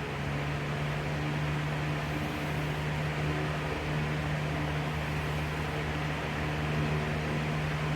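2004 Lasko 3733 box fan with its tuna-can motor running on high: a steady motor hum over the rush of air through the flower-petal blades, building over the first second as it comes up to speed and then holding level.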